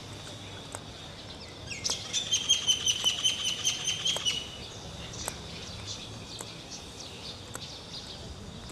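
A bird calling: a rapid chattering run of high, evenly repeated notes, about eight a second, starting about two seconds in and lasting about two and a half seconds, over faint street background with scattered ticks.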